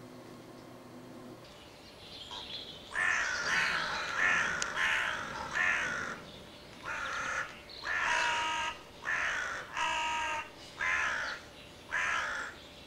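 A run of about a dozen loud, harsh crow caws, one roughly every second, starting about two seconds in.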